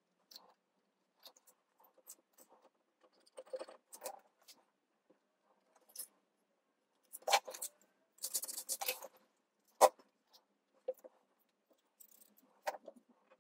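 Paper and craft supplies handled on a tabletop while pieces are glued: scattered light taps, rustles and scrapes, with a longer paper rustle about eight seconds in and a couple of sharper knocks just before and after it.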